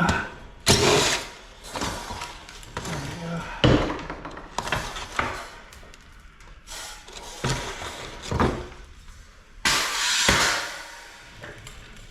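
Metal clanking and knocking as an old air conditioner unit is worked on by hand to break it down for scrap: a series of irregular sharp knocks and rattles, with a longer rasp lasting under a second about ten seconds in.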